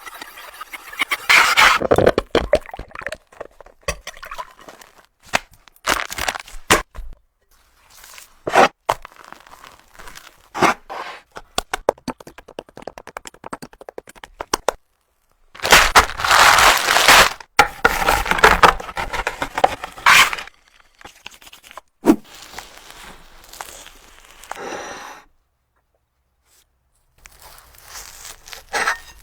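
Chocolate cake being broken into and scraped with utensils: irregular bursts of cracking and scraping, the longest lasting about four seconds past the middle.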